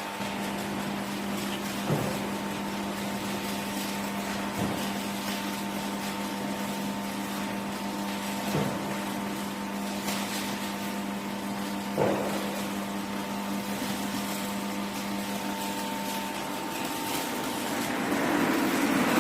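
Industrial machinery running with a steady hum over a hiss, broken by a few sharp clicks several seconds apart; a louder rush of noise builds near the end.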